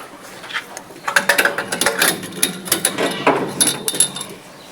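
Hand tools clicking and clinking on metal engine parts in a quick, irregular clatter of many small strikes, starting about a second in, during work on a Ford 5000 tractor's valve train and exhaust.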